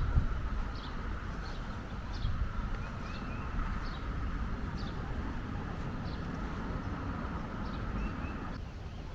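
Small birds chirping, short high calls repeated about once or twice a second. Under them run a steady high drone that cuts off suddenly near the end and a low outdoor rumble.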